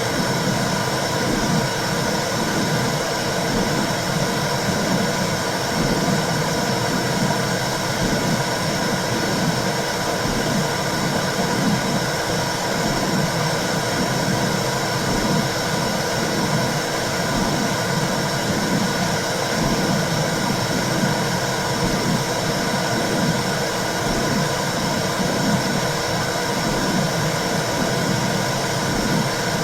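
Recorded womb sound: a steady whooshing noise with a low, regular pulse beating under it, like a heartbeat heard from inside the uterus.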